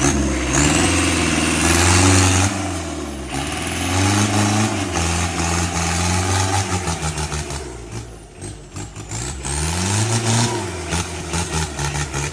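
Mitsubishi Strada pickup's engine revving up and down in repeated surges under load, with a high whine rising and falling alongside. It turns choppy and uneven toward the end.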